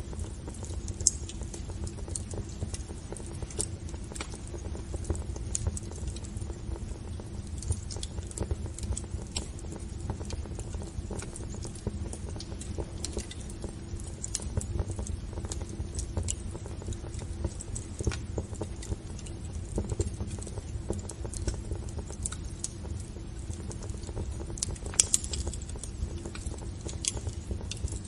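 Wood fire in a fireplace crackling, with irregular sharp pops over a steady low rumble of the burning. One louder pop comes about a second in, and another near the end.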